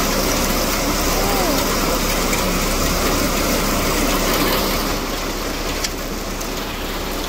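Heavy rain pouring down onto corrugated metal roofs, a steady dense hiss.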